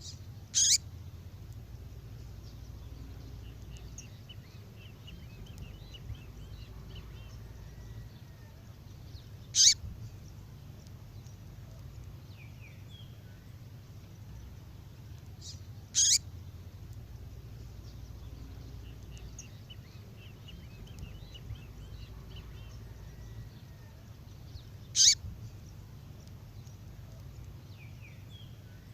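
A female songbird's call: a short, sharp high call four times, several seconds apart, with faint twittering in between over a steady low hum.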